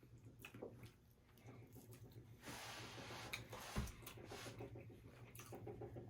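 Faint close-up eating sounds: quiet chewing and wet mouth clicks, with a short hiss about two and a half seconds in and a soft low thump a little later.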